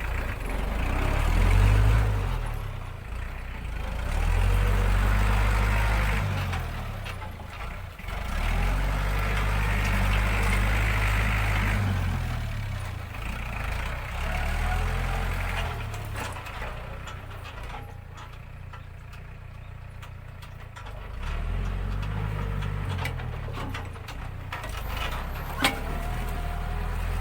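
ISEKI NT554 tractor's diesel engine running under load while plowing rough, rutted ground, its note swelling and easing every few seconds. One sharp knock near the end.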